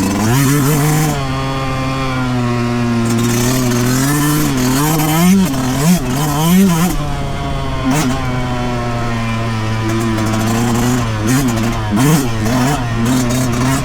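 2023 Yamaha YZ125 two-stroke single-cylinder dirt bike engine running under way on a trail, mostly holding a steady pitch with several quick revs up and down about halfway through and again near the end, with scattered short clicks and knocks from the ride.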